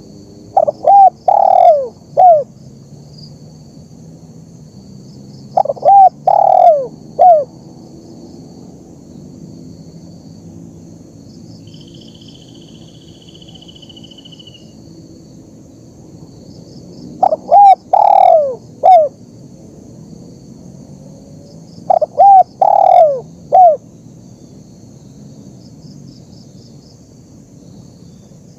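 Spotted dove (tekukur) cooing: four separate phrases, each of three or four quick, strong notes, spaced several seconds apart. A steady background chorus of small calling creatures runs behind.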